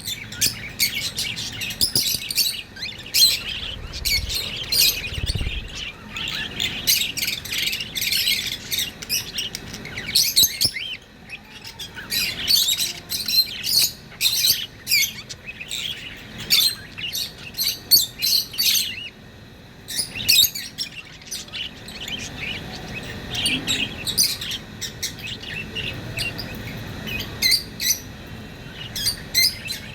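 A group of budgerigars chirping and warbling in a rapid, near-continuous chatter of short high chirps, with occasional squawks.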